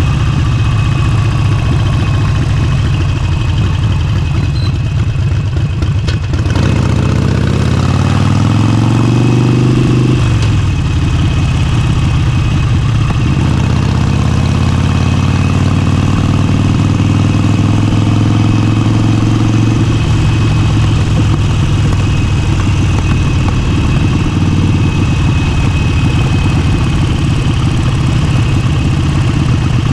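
Harley-Davidson Forty-Eight V-twin with an aftermarket exhaust, under way: it runs low and steady, then pulls up in pitch and drops back about ten seconds in, as at a gear change. It pulls up again from about thirteen seconds and drops near twenty seconds, then runs steady.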